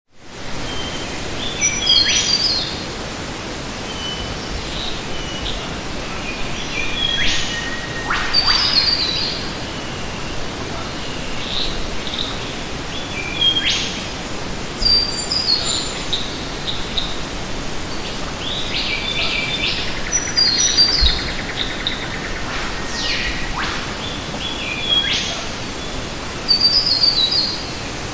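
Wild birds chirping and singing in short, repeated phrases of quick stepped notes and fast down-sweeps, every few seconds, over a steady background hiss of outdoor noise.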